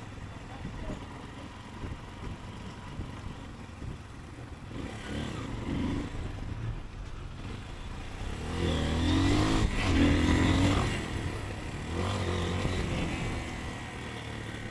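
Motorcycle engine running under way with road and wind noise, heard from the rider's seat. It gets louder from about halfway through, with the engine pitch rising and falling, then eases off near the end.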